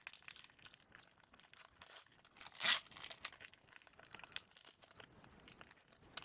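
A trading-card pack wrapper crinkling and being torn open by hand: quick crackles, with one louder burst about two and a half seconds in.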